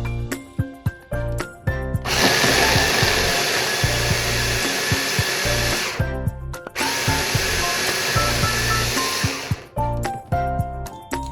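A small electric motor appliance runs with a loud, even whir and a steady whine, in two runs of about four and three seconds with a short pause between, over background music.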